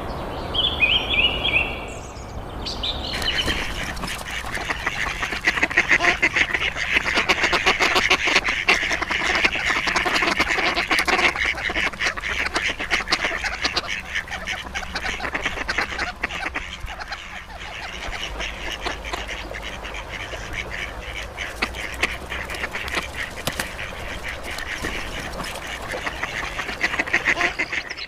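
A large flock of birds calling all at once: a dense, continuous chorus of rapid, overlapping harsh calls. It begins with a few separate calls, and the chorus swells in about three seconds in.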